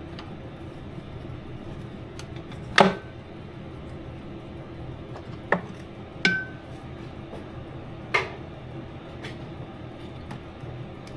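Metal hand tools clinking against metal four times while an old brake hose fitting is worked loose; two of the knocks ring briefly. A steady low background hum runs underneath.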